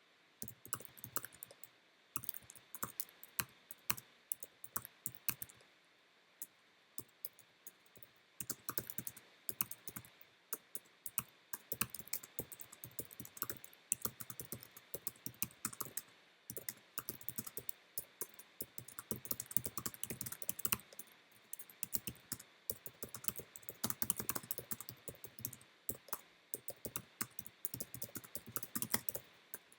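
Typing on a computer keyboard: quick, irregular runs of key clicks with a short lull partway through.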